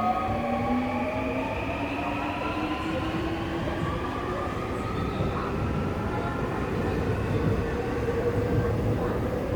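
Seoul Subway Line 3 first-batch train pulling away from a station: its traction motors whine in several tones that rise slowly in pitch as it gathers speed, over the steady rumble of the cars running on the track.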